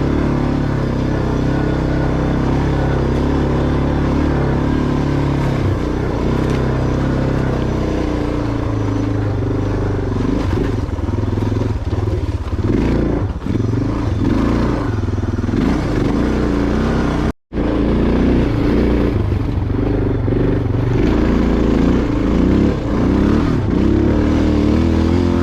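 Motorcycle engine running while riding a dirt trail, its note shifting in steps as the throttle and gears change, with wind noise over it. The audio cuts out for an instant about two-thirds of the way through.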